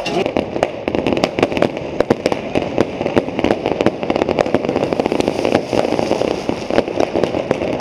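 Fireworks going off in a dense, continuous volley: many rapid sharp cracks and pops, several a second, over a steady hiss, starting all at once and running without a break.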